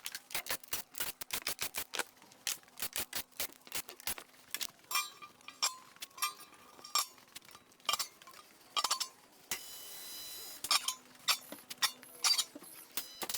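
Many sharp metallic clicks and clinks of tools and fasteners as the car's undertray is unbolted. About ten seconds in there is a one-second steady whirr.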